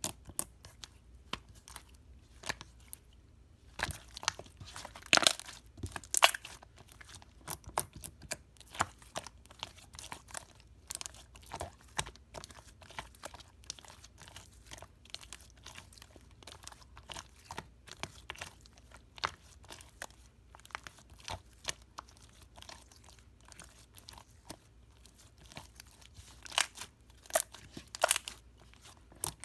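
Slime being squeezed, stretched and pressed by hand, giving a constant run of irregular sharp crackles, clicks and pops, with louder bursts of popping about five seconds in and again near the end.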